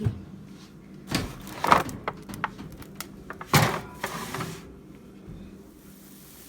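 A pan being put back into a kitchen oven: a run of metallic clatters and knocks about a second in, and a louder clatter about three and a half seconds in, as the oven rack and door are handled.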